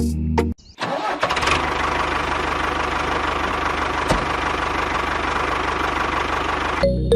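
Small motor running steadily with a rapid, even buzz, starting just under a second in and stopping near the end.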